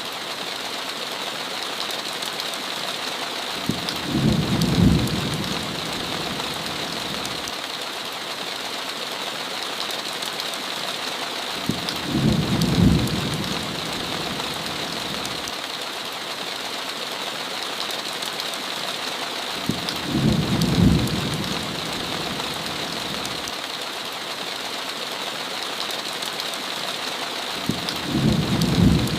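Steady heavy rain hissing, with four short, low rumbles of thunder coming about every eight seconds.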